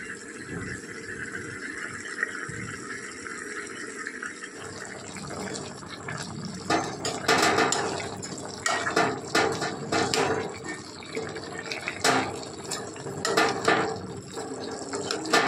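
Chicken, onions and tomatoes frying in a pan with a steady sizzle. From about six and a half seconds in, a steel spoon stirs them, scraping and knocking against the pan again and again.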